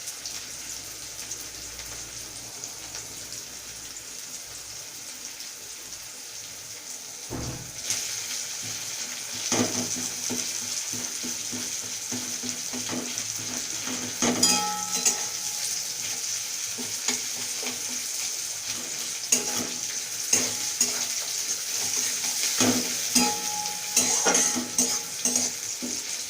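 Chopped onion frying in mustard oil in a kadai, sizzling steadily, with a spatula knocking and scraping against the pan as it is stirred. The sizzle grows louder about a third of the way in, and the stirring clicks come often from then on.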